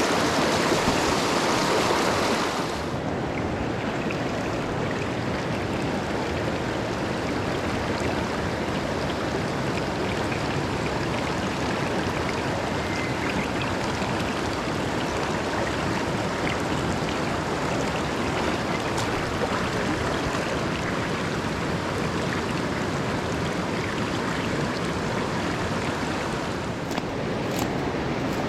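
Mountain stream flowing: a steady wash of running water, louder and brighter for the first two or three seconds, then even.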